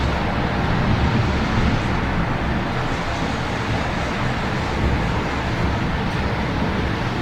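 Steady city traffic rumble with falling rain, an even wash of noise with no sudden events.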